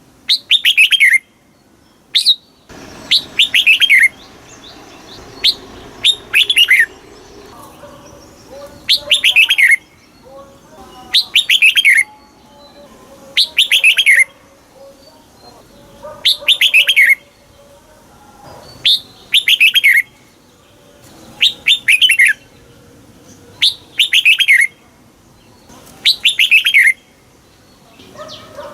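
Red-whiskered bulbul singing: short, loud phrases of quick falling notes, each under a second long, repeated about every two seconds.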